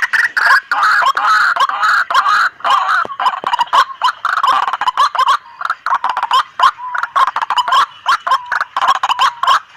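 White-breasted waterhens calling noisily, with rapid harsh notes repeated many times a second and overlapping without a break. The sound is that of the birds gathering, used as a lure call.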